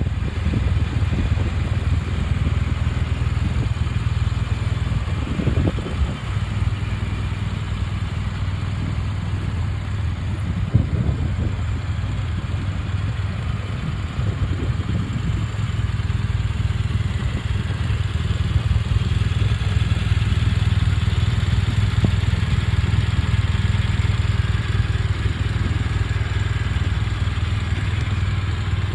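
BMW R1200 GS Adventure's liquid-cooled boxer twin idling steadily, with a few brief knocks.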